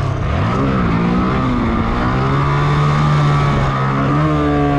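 Motorcycle engine revving up under throttle, holding a steady pitch, then rising again about four seconds in and slowly dropping.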